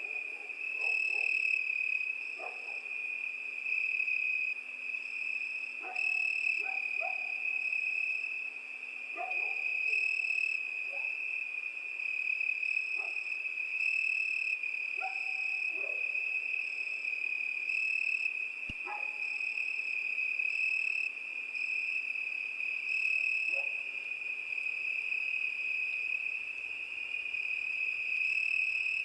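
Crickets chirring in one continuous high trill. Short, lower-pitched calls from other night animals break in every second or two, some of them falling in pitch.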